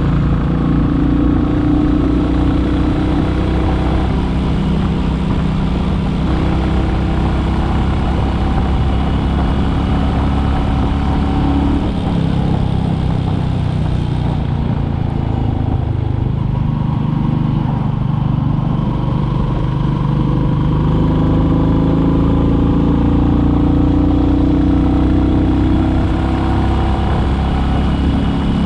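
Royal Enfield Classic 350's single-cylinder engine running while the motorcycle is ridden. Its pitch sags about halfway through, then climbs over several seconds in the last third as it accelerates.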